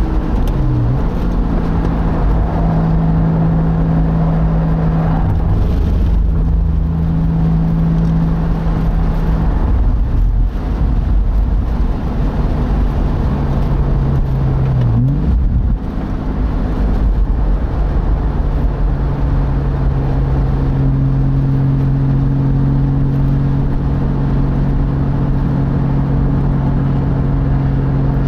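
Porsche Boxster's engine pulling at speed on track, heard from the open cockpit over a deep rumble of wind and road noise. The note mostly holds steady, dipping sharply and climbing back about a second in and again around fifteen seconds in.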